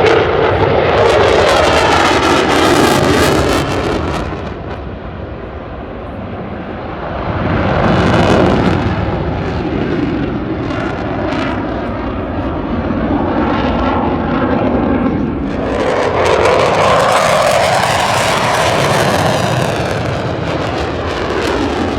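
Fixed-wing aircraft engine noise as a plane flies a display pass. The sound swells and fades with gliding pitch: loud near the start, easing off, peaking again about eight seconds in, and loud again from about sixteen seconds.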